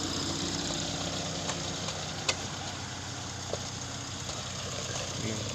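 Heavy-equipment engine running steadily at idle, with a short sharp click a little over two seconds in.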